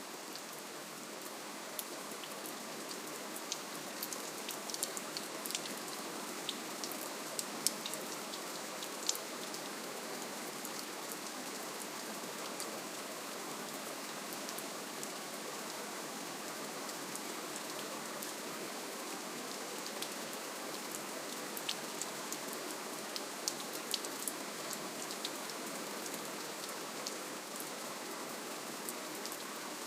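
Steady, gentle rainfall: an even hiss of rain with many small distinct drop ticks on top.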